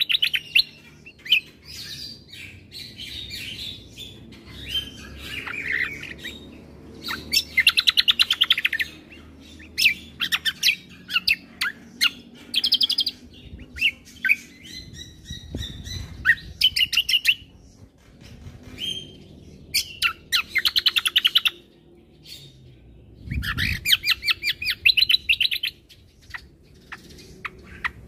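Kecial kombo (cucak kombo) songbird singing: bursts of rapid, varied chirping phrases and fast high trills, separated by short pauses. A couple of soft low thuds come in between.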